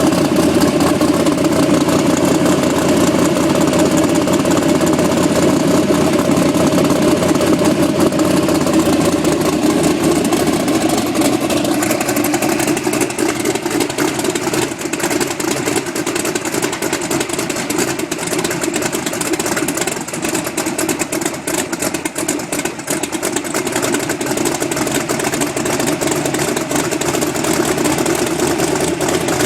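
Twin-turbocharged V8 engine idling on its second fire-up after the build, running steadily and dropping slightly in level about twelve seconds in.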